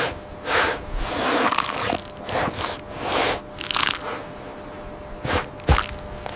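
Irregular crunching and scraping, in a run of short noisy bursts with two sharp snaps about five seconds in.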